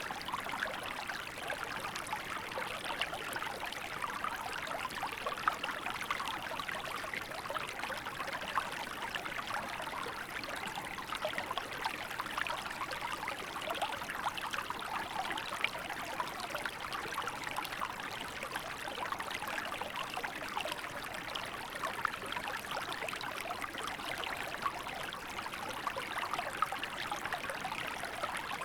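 A small river flowing steadily, water babbling and trickling over stones.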